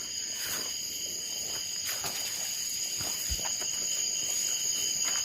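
Steady night insect chorus: crickets trilling continuously in several high pitches at once. A couple of faint soft knocks come about two and three seconds in.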